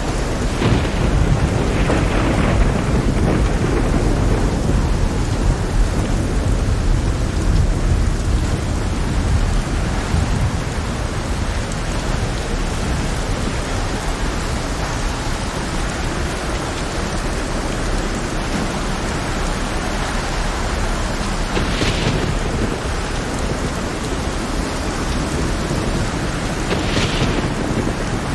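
Heavy rain falling steadily, with a deep rolling rumble of thunder through the first half. Two brief hissing surges come near the end.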